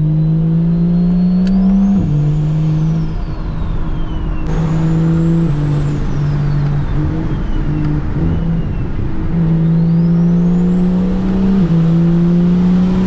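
A BMW E92 335i's N54 inline-six with a single-turbo conversion pulling through the gears. The engine note climbs and then drops at each upshift, twice: about two seconds in and again near the end. A faint high turbo whistle rises and falls with the throttle.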